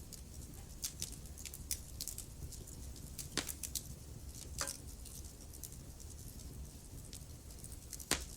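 Wood fire in a fireplace crackling, with scattered sharp pops over a low steady rumble; the loudest pops come about three and a half seconds in, again about a second later, and near the end.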